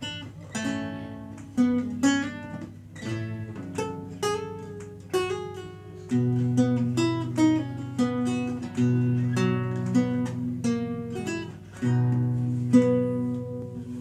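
Renaissance lute played solo: a steady run of plucked melody notes and chords over long-held bass notes.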